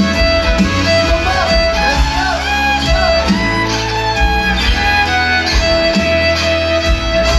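Live band playing an instrumental break: a fiddle leads with sliding and held notes over bass guitar and a steady drum beat.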